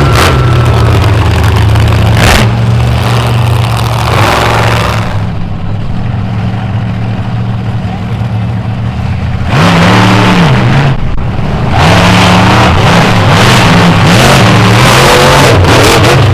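Monster truck engines running loud and revving hard. The sound eases for a few seconds in the middle, then comes back at full power from about ten seconds in, with the engine pitch rising and falling in quick surges.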